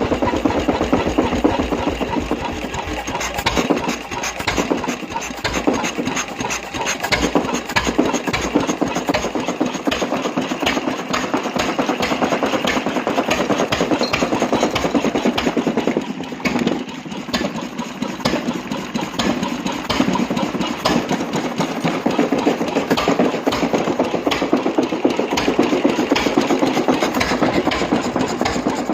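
G. Froussart engine running with a rapid, even firing beat. It dips briefly about sixteen seconds in, then picks up again.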